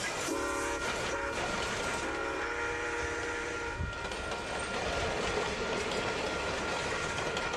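Diesel freight locomotive's air horn sounding a medium blast, a short one, then a long one of about two seconds, over the rumble of the moving train. After the horn stops the train's rumble and rail noise carry on.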